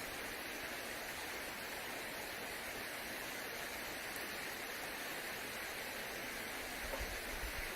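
A dense chorus of many frogs calling at night, merged into a steady, even hiss with no single call standing out.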